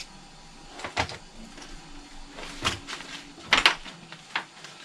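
Sharp clicks and knocks of small hard plastic and metal RC truck parts being handled, about half a dozen, the loudest two close together a little past halfway.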